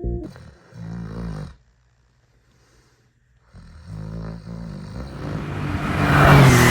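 A car engine sound effect: a short burst about a second in, then after a pause the engine runs and grows steadily louder as it speeds up.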